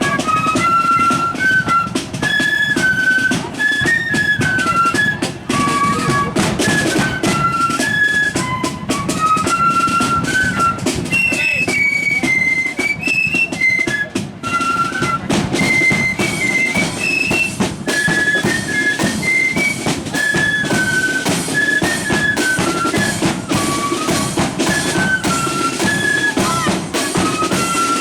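Marching flute band playing a tune on high-pitched flutes, with drums beating steadily underneath.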